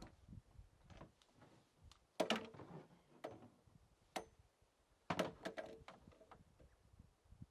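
Knocks and clatter of objects being handled, with two louder bouts of clatter about two and five seconds in and scattered light clicks between.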